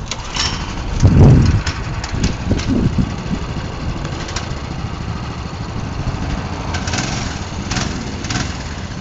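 A mini bike's 6 hp Predator single-cylinder engine running, with a brief louder burst about a second in and a steady low rumble after it.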